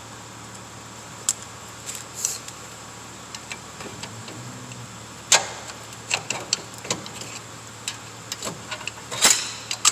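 Scattered metallic clicks, clinks and knocks from a socket wrench and the brake caliper being worked loose and lifted off a car's brake disc, with a few sharper knocks about five seconds in and near the end.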